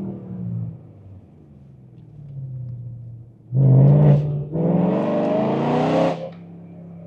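BMW E92 M3's S65 V8 through a titanium exhaust, heard from inside the cabin: the revs fall away and the engine drones quietly, then about halfway through it is opened up hard, rising in pitch with a short dip partway, before the throttle is lifted near the end and it drops back to a steady drone.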